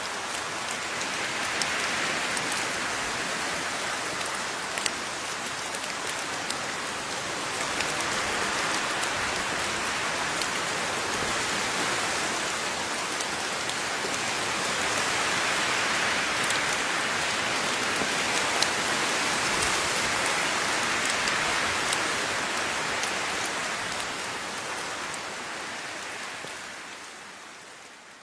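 Steady rain falling, with individual drops ticking sharply on a surface above the hiss; it swells and eases gently and fades out near the end.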